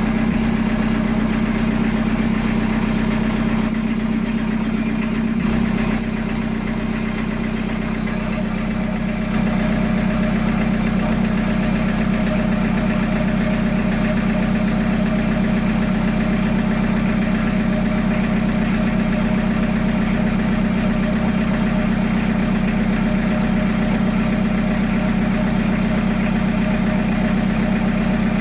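Peugeot 806's 1.9 turbo-diesel engine idling steadily, just after its first start following an engine rebuild. The loudness dips slightly for a few seconds about a quarter of the way in.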